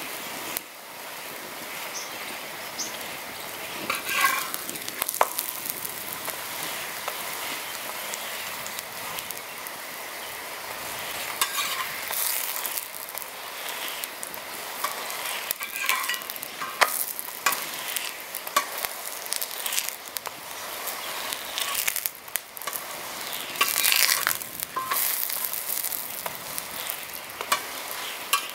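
Paratha frying in fat on a large iron tawa, a steady sizzle throughout, with short bursts of scraping and tapping several times as a metal spatula presses and moves the bread on the griddle.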